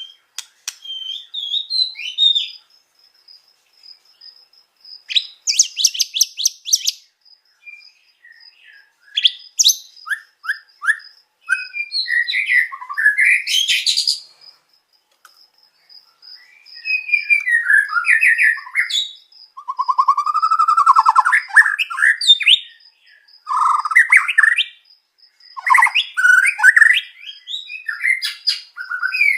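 White-rumped shama (murai batu) singing a long, varied song of whistled glides, chirps and fast rattling trills in phrases a second or two long, separated by short pauses, with phrases mimicking other birds such as canaries. A faint steady high tone runs underneath.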